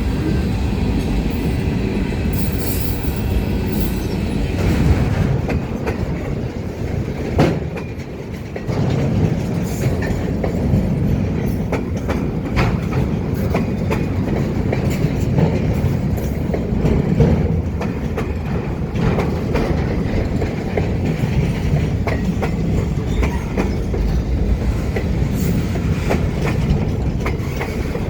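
Ferromex freight train cars rolling past, with a steady rumble and the steel wheels clicking over the rail joints. There is some faint wheel squeal in the first few seconds.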